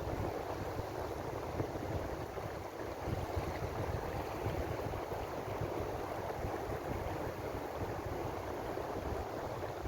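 Ocean waves washing steadily, an even surf noise with a low rumble underneath.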